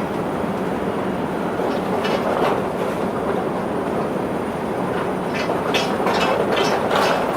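Running noise heard inside a Linimo HSST maglev train car: a steady rushing hum with no wheel or tyre noise. About five seconds in, a regular run of sharp clicks starts, roughly three a second.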